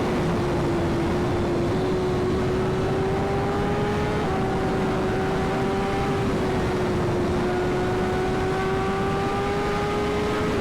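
BMW S 1000 RR's inline-four engine running at a steady cruise, its note holding nearly one pitch with slight rises and dips, under heavy wind and road rush.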